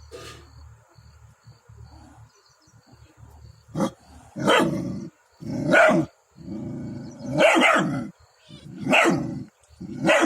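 A dog barking in a fight with a cat: quiet at first, then about six loud barks starting about four seconds in.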